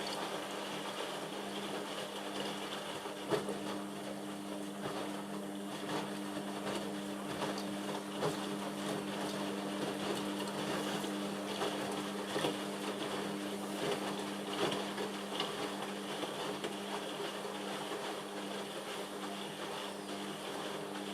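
Indesit washing machine running partway through its cottons cycle: a steady electric hum with water sloshing in the drum and small irregular knocks.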